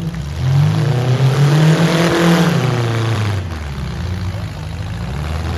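Demolition derby car engine revving, its pitch climbing, held high for a couple of seconds, then dropping back and running lower near the end.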